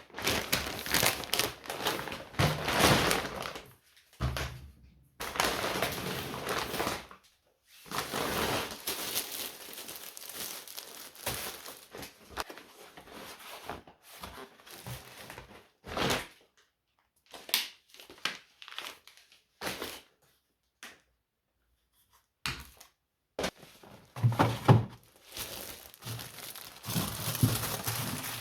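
Packaging crinkling and tearing as it is handled, in irregular stretches of a few seconds, with a few sharp knocks and thunks in between.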